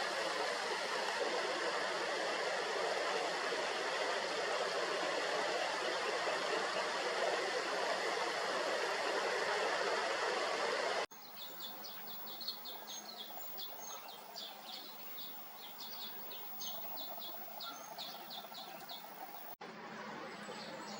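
A steady rushing noise, then, after a sudden cut, a quick run of short high chirps at about three a second: a grey-capped greenfinch calling, typical of fledglings begging for food.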